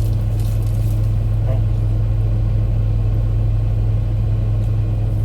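Steady low rumble of a car engine, even in level throughout.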